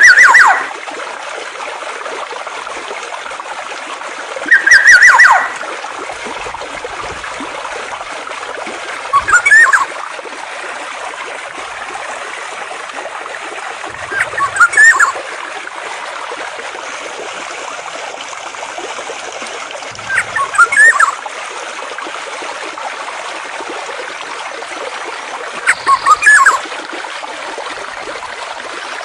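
Flowing water streaming steadily, with a songbird's short call phrase repeated six times, about every five to six seconds; the calls are the loudest sound.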